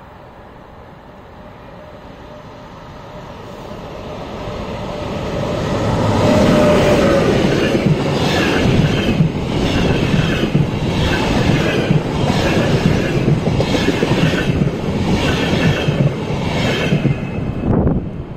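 Intercity passenger train with double-deck coaches passing close by on electrified track. It grows louder as it approaches, is loudest about six seconds in, then gives a regular rhythmic wheel clatter, roughly one beat every 0.7 s, as the coaches run past. The clatter drops away near the end as the last coach clears.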